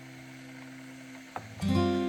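Background acoustic guitar music: a held chord rings, then a new chord is strummed about one and a half seconds in.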